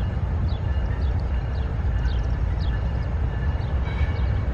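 Low steady rumble of a freight train rolling past, with thin high steady squeals and short high falling chirps about twice a second.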